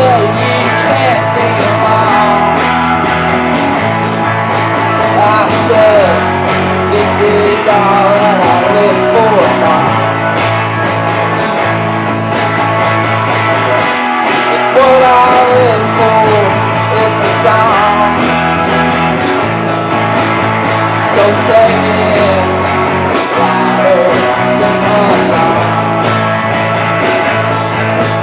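A rock band playing live: electric guitar lead lines over a steady bass and drums with a fast even beat on the cymbals.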